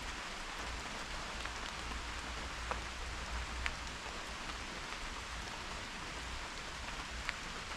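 Steady rain falling, an even hiss with a few sharp ticks of single drops striking close by.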